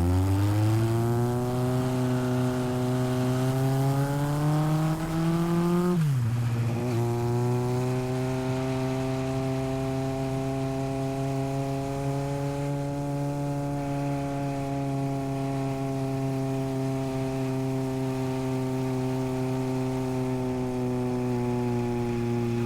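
1981 Honda CB750F's air-cooled inline-four through a vintage Yoshimura exhaust, pulling hard with rising pitch for about six seconds, then dropping sharply in pitch at an upshift and running at a steady cruise.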